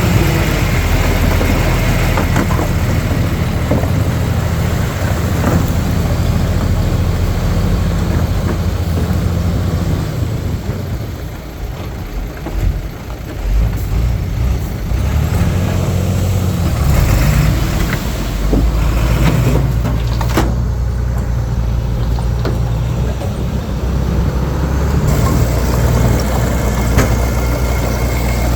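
Heavy diesel earthmoving machine engine running under load, easing off and wavering in pitch about halfway through before settling back to a steady run, with a few sharp metallic knocks.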